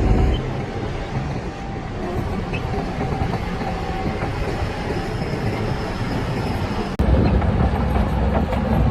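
Crawler bulldozer at work, its diesel engine running under load with the steady clatter of steel tracks. About seven seconds in the sound cuts abruptly and comes back louder and deeper.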